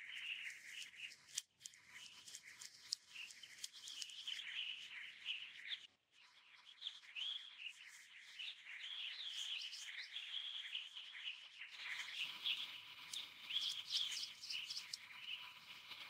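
Small birds chirping and twittering in a busy chorus of short, high calls, dropping out briefly about six seconds in.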